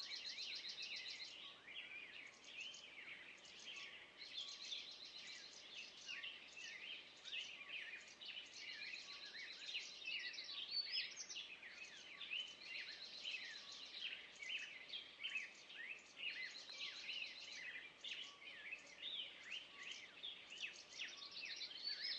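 Several songbirds singing at once: many short chirps and sweeping notes, with a fast trill of rapidly repeated high notes coming back every few seconds.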